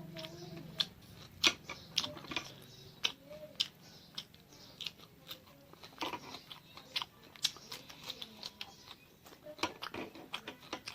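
Close-miked eating sounds: chewing with irregular wet smacks and clicks of the mouth.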